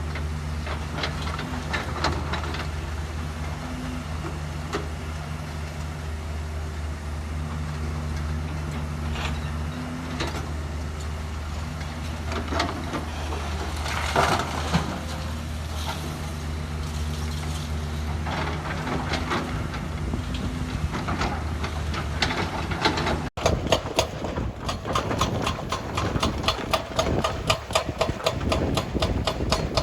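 A heavy construction machine's engine runs steadily, with occasional clanks. About 23 seconds in the sound cuts to a rapid, even knocking, several strikes a second.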